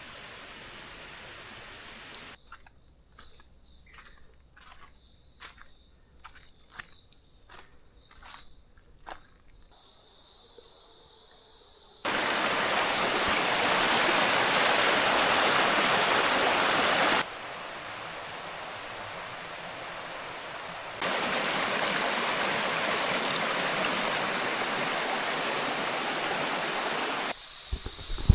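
Outdoor natural ambience in clips of different loudness: in the first third, a steady high insect tone with a string of sharp ticks like footsteps. From about halfway, loud, even rushing noise like running water, with a short quieter break.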